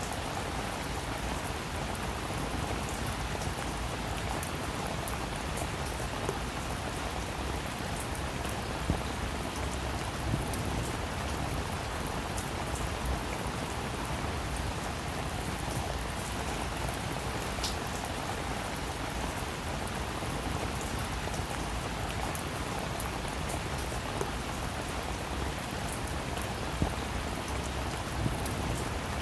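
Steady rain falling, a dense even hiss with scattered close drops ticking sharply on a surface.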